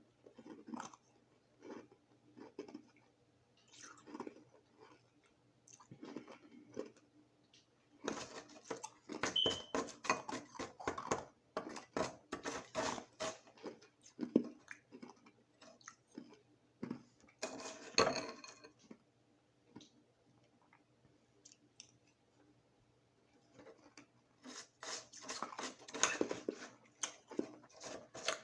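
Crushed ice being chewed, with crisp crunching in spells and quieter, sparser chewing between them.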